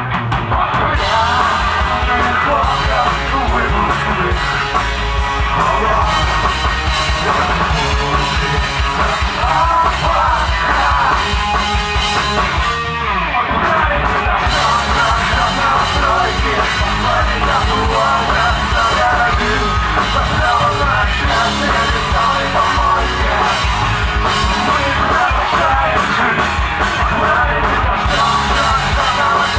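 Live alternative rock band playing loudly, with shouted singing over guitars and drums.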